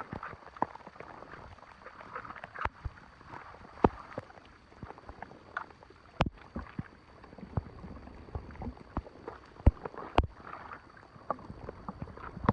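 Hand work at a clogged storm drain in standing water: irregular splashes and sharp knocks as debris is raked and pulled from the blockage, over a low wash of moving water.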